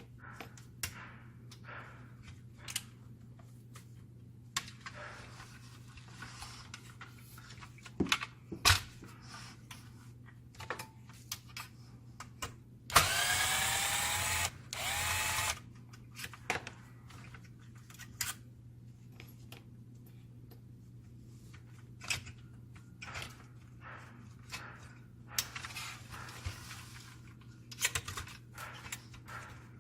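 Handheld power driver spinning in a loud burst of about two seconds, then a shorter second burst, its motor pitch sliding as it runs, as screws are driven on a printer fuser unit. Around it, scattered small clicks and knocks of parts being handled over a steady low hum.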